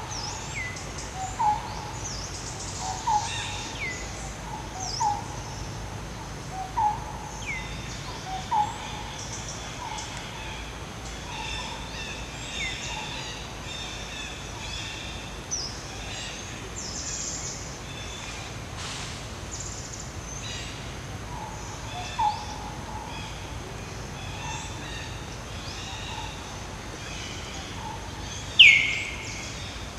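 Wild forest birds calling over a steady outdoor background. A short low note repeats about every second and a half for the first several seconds and returns later, mixed with high whistles that fall in pitch. The loudest whistle comes near the end.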